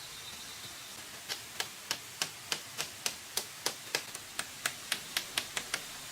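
A rapid, even series of sharp taps, roughly three to four a second, starting about a second in and stopping near the end, over a steady background hiss.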